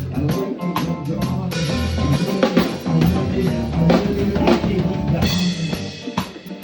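Live band music with the drum kit to the fore, kick drum and snare hits keeping a steady beat under other instruments.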